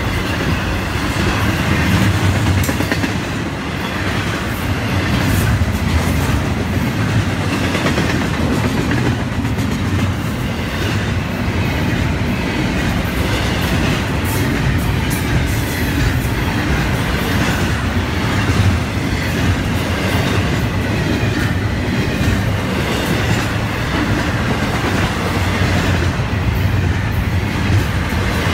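Florida East Coast Railway double-stack intermodal freight cars passing close by at speed: a steady, loud rumble with scattered clicks of wheels over the rails.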